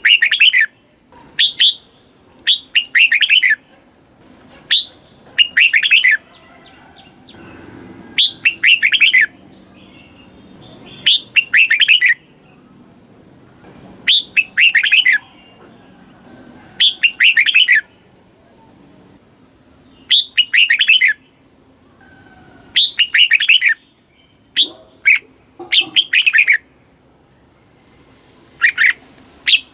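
Red-whiskered bulbul singing: short, bright warbled phrases, about a dozen of them, each a second or so long and repeated every one to three seconds with brief pauses between.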